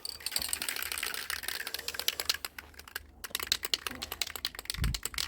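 Aerosol spray paint can hissing as paint is sprayed for about three seconds, then, after a brief pause, the can's mixing ball rattling in quick, even clicks as the can is shaken for the next coat.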